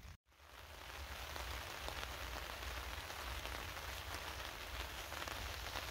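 Light rain shower falling: a steady hiss of many small raindrop ticks. It builds up about a second in, after a momentary drop-out, then holds steady.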